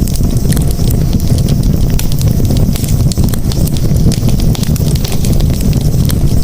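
Campfire burning: frequent sharp crackles and pops scattered over a steady low rumble of the flames.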